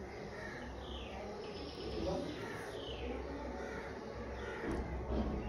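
Small birds chirping in the background, a run of short falling chirps repeated every half second or so, over a steady low hum.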